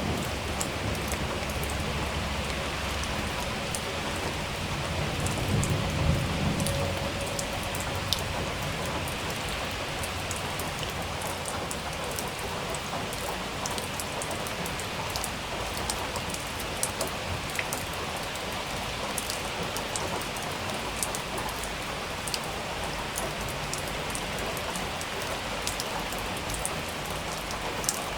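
Steady rain falling on a surface, with sharp ticks of individual drops scattered through it. A short low rumble swells about five to seven seconds in.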